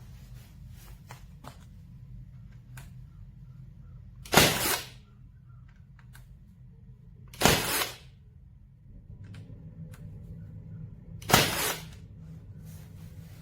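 LINKNAL ST18 cordless 14-gauge nailer firing three times, a few seconds apart. Each shot is a sharp, loud crack with a brief tail.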